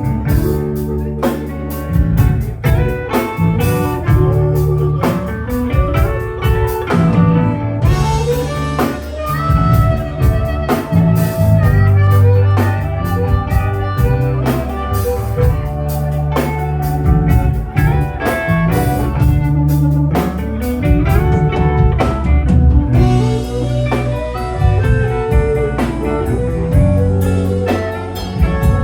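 A live electric blues band plays an instrumental passage with no vocals: electric guitar lines over bass and a drum kit keeping a steady beat.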